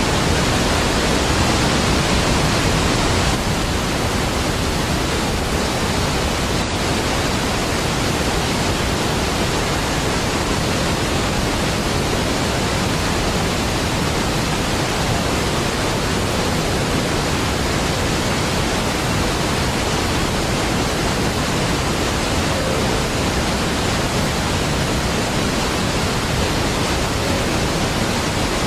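Large waterfall: a continuous, dense rush of falling water, steady throughout, easing slightly about three seconds in.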